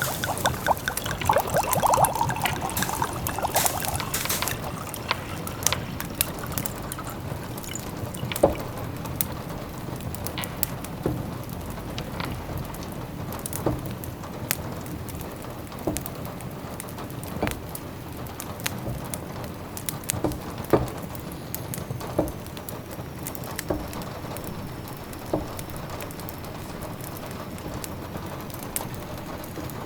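Cosy indoor ambience mix: a steady haze of autumn rain with scattered sharp crackles from a wood fire, about one every second or two. A busier liquid sound, like pouring or bubbling, fills the first few seconds.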